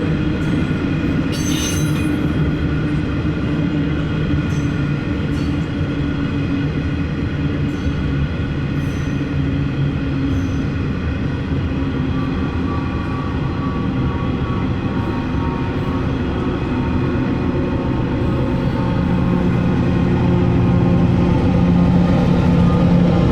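Empty coal train's wagons rolling past, with a steady whine and occasional clicks over the rail. A deeper hum grows louder near the end.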